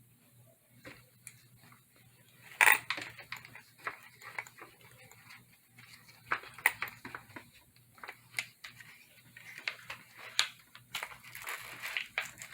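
Handling noises as a wet RC car (Arrma Typhon 6S) is dried off: irregular plastic clicks and knocks with rubbing. The loudest knock comes about three seconds in, and the rubbing and clicking get busier toward the end. A faint steady low hum runs underneath.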